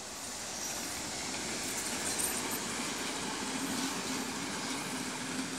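Sri Lanka Railways diesel locomotive and passenger coaches passing close by, with engine drone and wheels rolling on the rails, growing louder over the first couple of seconds. A steady low engine tone sets in about halfway through, with brief high squeals about two seconds in.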